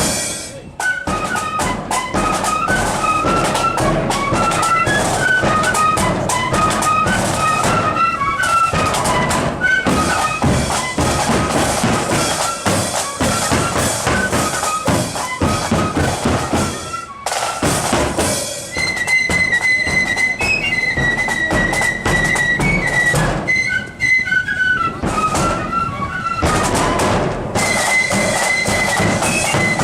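A marching flute band playing a tune: flutes carry a high melody over bass and snare drums, with a brief pause about seventeen seconds in.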